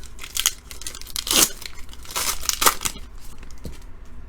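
A Donruss Optic football card pack's wrapper being torn open and crinkled, in several short rips, the loudest about a second and a half in.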